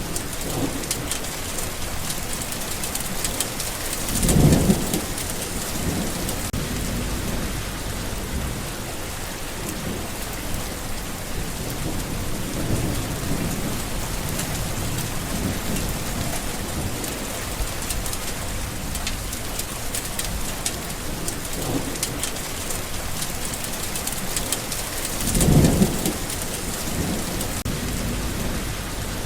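Steady rain falling on a surface, with a fine crackle of drops. Two short low rumbles of thunder stand out, one about four seconds in and one near the end.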